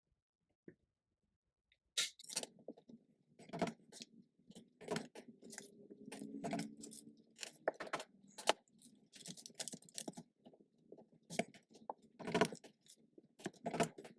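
A rubber stamp being dabbed on an ink pad and pressed onto paper on a table, a run of irregular sharp taps with handling noise, starting about two seconds in.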